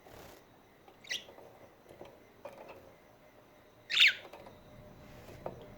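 Budgerigar chirping: a short chirp about a second in, then a louder chirp about four seconds in that sweeps down in pitch.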